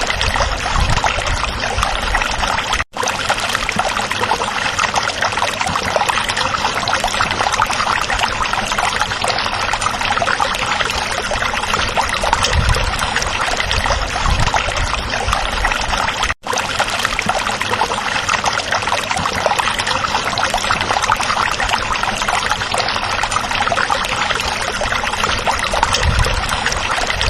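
Stream water running and babbling over stones, a steady rush. The sound drops out for an instant twice.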